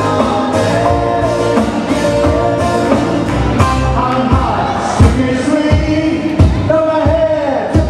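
Live band playing a song: a singer's voice over guitar and a drum beat.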